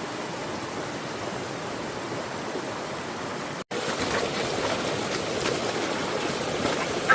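Steady rushing of water, from flowing floodwater and rain. It drops out for an instant a little over halfway through and comes back slightly louder, with a few faint splashes.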